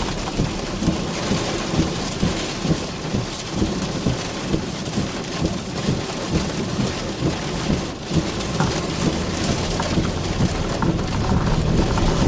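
Heavy rain beating steadily on a car, with thunder rumbling underneath.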